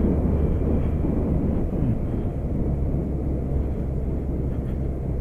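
BMW K1200RS motorcycle's inline four-cylinder engine running steadily at a constant speed while riding, with a low, even drone.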